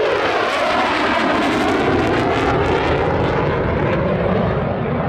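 Eurofighter Typhoon jet passing in a display, its two Eurojet EJ200 turbofan engines making a loud, continuous jet noise whose tone sweeps slowly as it moves.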